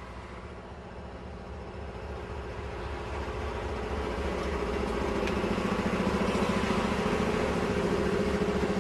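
Diesel locomotive pushing a wedge snow plow along the track, its engine drone growing steadily louder as it approaches and passes close by, with a rising rush of noise from the plow and thrown snow.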